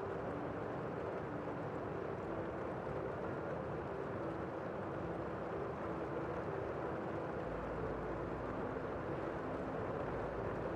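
Steady rain falling, an even low hiss with no separate drops or other events standing out.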